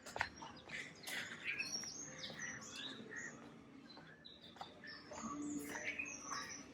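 Faint birds chirping, with many short scattered calls.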